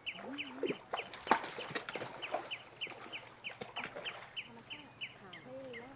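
A bird peeping over and over in short, high, falling notes, about four a second, stopping about four and a half seconds in, with a few sharp clicks among the peeps.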